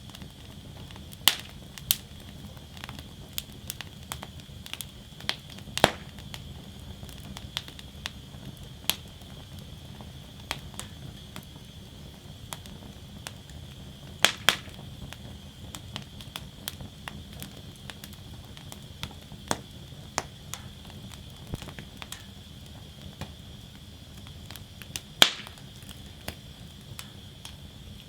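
Wood fire burning in a fire basket, crackling with irregular sharp pops and a few louder snaps over a steady low rumble and faint hiss.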